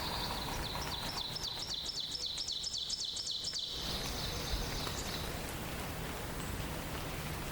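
A songbird sings a rapid series of repeated high, down-slurred notes, about four a second, for about three seconds, over a steady background hiss.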